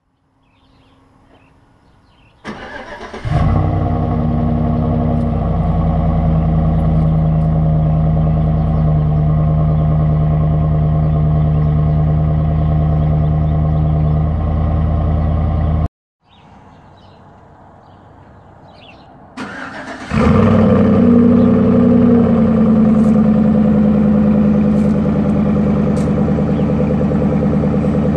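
Chevrolet 5.3L V8 in a 2009 Silverado 1500 cranked and started twice, heard through the exhaust: once with the stock system and once with a Corsa DB cat-back. Each time it catches after a brief crank and settles into a steady fast idle. The first run cuts off abruptly about 16 seconds in, and the second start comes about 20 seconds in.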